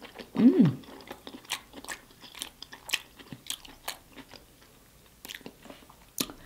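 Close-miked chewing of soft, sauce-coated food, with many short wet mouth clicks and smacks. A brief hummed "mm" falls in pitch about half a second in.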